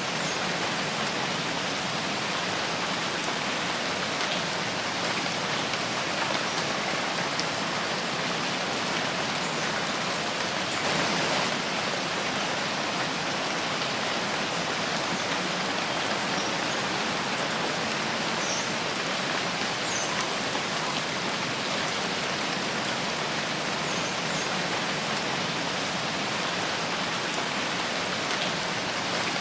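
Steady rain falling in a forest, a dense even patter of drops on leaves and ground, swelling slightly about eleven seconds in.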